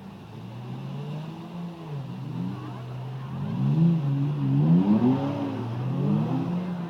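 Drift car's engine revving up and down over and over, getting louder about halfway through as it comes nearer.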